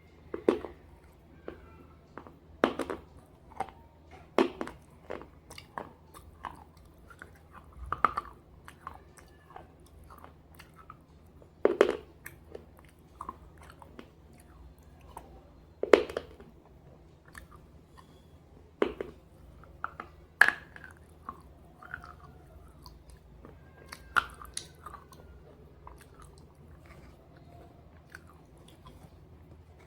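A person biting and chewing pieces of slate coated in red gravy, with sharp crunches at irregular intervals of a few seconds between quieter chewing. A faint steady low hum runs underneath.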